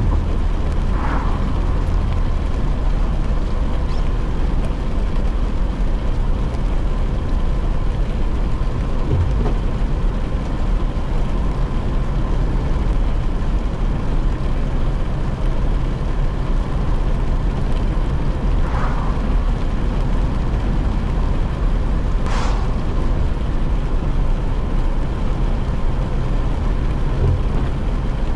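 Steady car-cabin noise while driving in rain: a low road and engine rumble under an even hiss of rain and wet tyres. Three brief swishes pass over it, about a second in, near two-thirds through, and the brightest a few seconds later.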